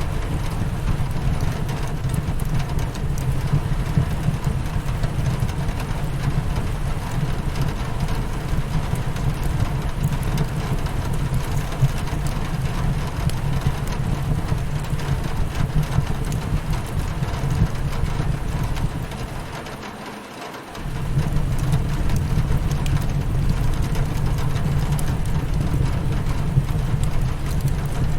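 Rain hitting a windowpane in a steady low hiss, mixed with scattered small crackles of a wood fire in a fireplace. About two-thirds of the way through, the sound dips for a second or two, the low part dropping away, then comes back.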